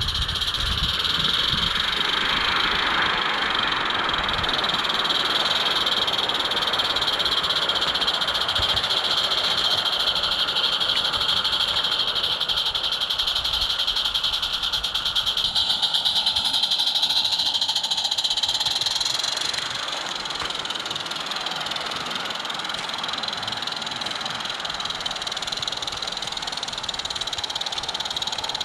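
Small live-steam garden railway locomotive, a Roundhouse Katie, running along its track with rapid fine clatter and rumble from the train. A steady high-pitched chorus sounds over it. The rumble eases and the level drops a little about two-thirds of the way in.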